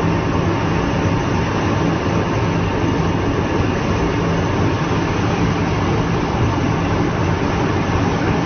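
Steady heavy machinery noise: a continuous rumble with a low hum that holds level, with no distinct strikes or changes.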